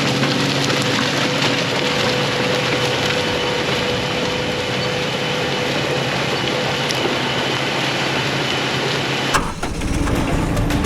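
An engine running steadily, with a constant whine over a noisy drone. It cuts off abruptly about nine seconds in.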